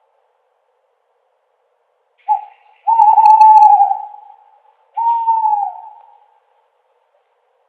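An owl hooting after a silence of about two seconds: a brief note, then a long wavering hoot, then a shorter hoot that falls in pitch at its end.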